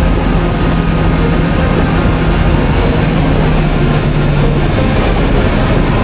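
Kawasaki Z900RS inline-four engine running steadily under way, heard with a loud rush of wind noise.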